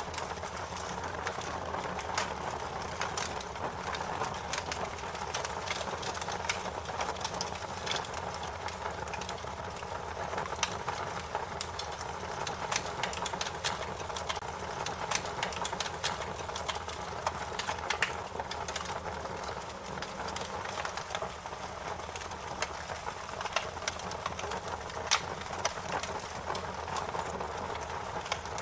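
Wood fire crackling: a steady hiss with sharp irregular pops and snaps, several a second, a few noticeably louder than the rest.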